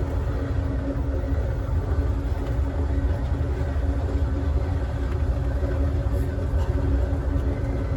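Steady rumble of a moving passenger rail car rolling over the track, with a steady low hum under it.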